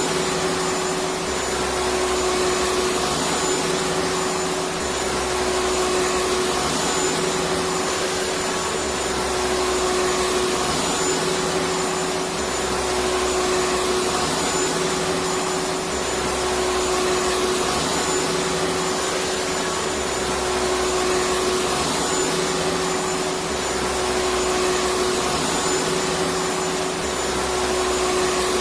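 Electric vacuum cleaner running steadily, a continuous whooshing motor noise with a steady hum, rising and falling slightly in the low end about every two seconds.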